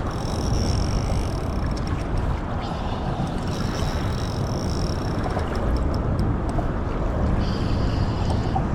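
Steady low rumble of wind and river noise, with a faint high whine coming and going three times as a spinning reel is cranked to bring in a hooked fish.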